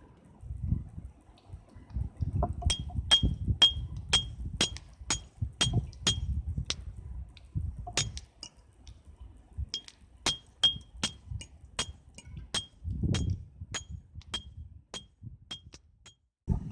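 Repeated bright clinks of a small hard object, each with a short ring, about two a second in two runs with a pause between, over a low rumbling noise.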